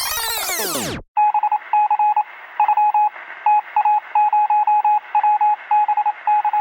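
Electronic beeping: one steady tone keyed on and off in short and long beeps at an uneven rhythm, over a thin hiss that sounds as if heard through a radio. It follows the tail of a sweeping synthesizer sound that ends about a second in.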